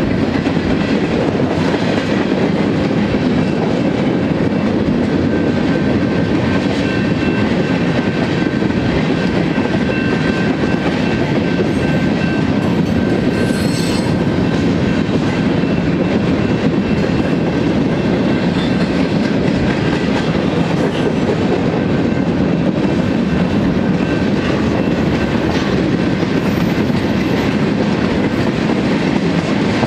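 Freight cars of a manifest train, boxcars and tank cars, rolling past steadily: a loud, even rumble of steel wheels on rail with clickety-clack over the rail joints and a faint, thin wheel squeal through much of it.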